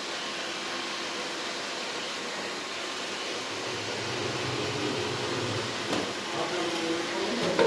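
iRobot Roomba robot vacuum running with a steady whir as it drives back to its charging dock, with a short knock near the end.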